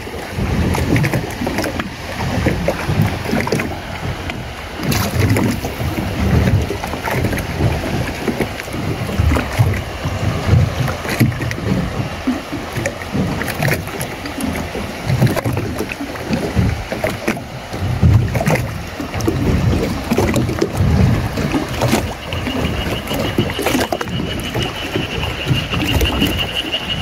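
Water sloshing and lapping against a small boat's hull, in uneven low surges with scattered knocks. A thin steady high tone comes in about three-quarters of the way through.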